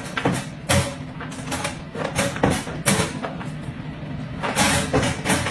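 A dog's claws scrabbling and its body bumping against a plastic pet crate and wooden floor as it slides back into the crate: a string of knocks and scrapes, under a faint steady low hum.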